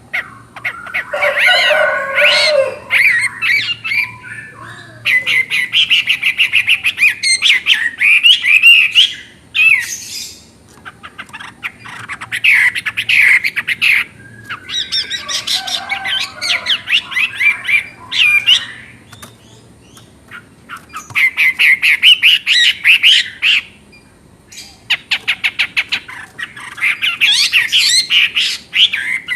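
Chinese hwamei (melodious laughing thrush) singing a loud, varied song. It comes in repeated bursts of rapid, pitch-shifting whistled and trilled notes, each burst a few seconds long with short pauses between them.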